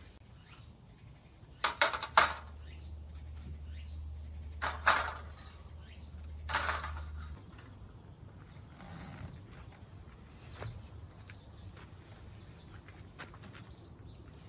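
Steady high-pitched drone of insects, with a few sharp knocks or clatters over it: a quick cluster about two seconds in, then single knocks near five and six and a half seconds.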